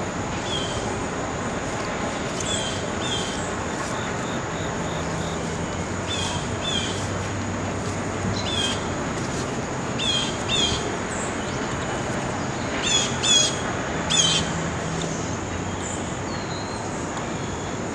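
A bird calling repeatedly: short, sharp high calls, mostly in pairs, loudest in the second half. Underneath is a steady rumble of distant traffic and a thin, steady high tone.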